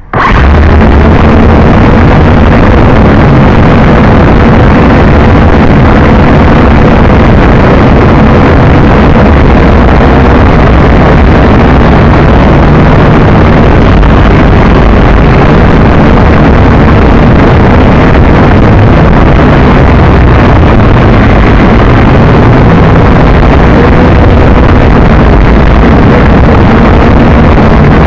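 JJRC H12C toy quadcopter's motors and propellers buzzing steadily through a flight, very loud and harsh as picked up by its own onboard camera microphone, with a wavering whine and low wind rumble underneath.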